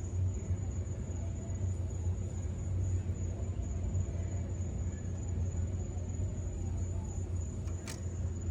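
A steady low rumble with a thin, continuous high-pitched trill over it, like a cricket or other insect calling.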